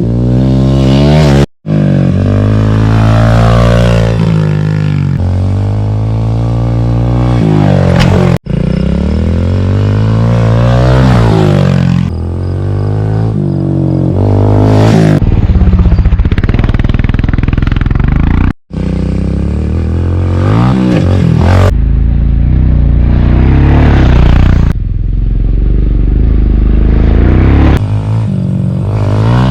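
Dirt bike engine revving up and down as it rides around a motocross track, the pitch climbing and falling with the throttle. The sound cuts off abruptly several times between clips.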